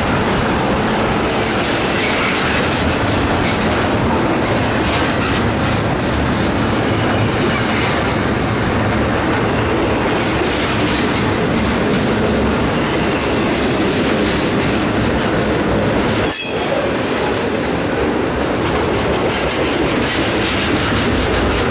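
Norfolk Southern freight train's cars rolling slowly past, steel wheels on rail giving a steady rumble and clatter. It briefly dips about three quarters of the way through.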